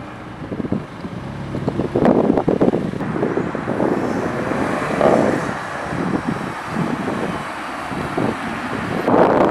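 A car's exhaust running hard and passing, in uneven loud surges, with wind buffeting the microphone.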